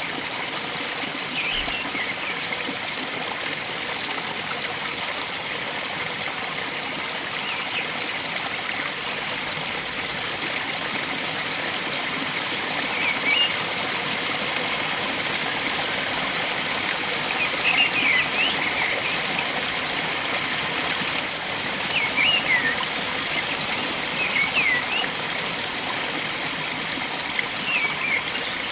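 Steady rush of flowing water, with birds chirping in short phrases every few seconds over it.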